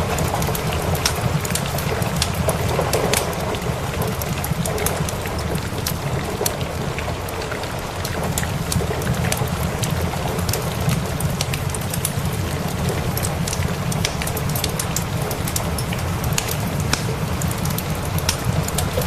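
Steady rain mixed with a fireplace fire crackling in frequent sharp pops, over a continuous low rumble.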